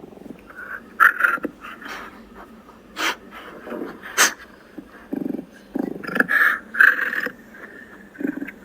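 Dog giving short, irregular yelps and barks, with two sharp clicks about three and four seconds in.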